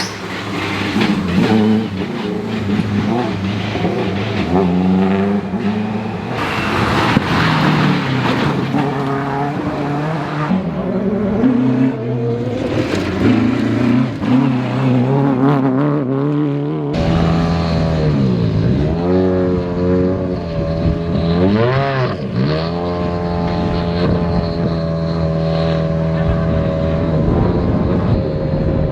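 Rally car engines being revved hard, their pitch climbing and falling with throttle and gear changes. About halfway through the sound switches abruptly to a single engine holding a steady note, with two or three sharp drops and climbs in revs before it settles.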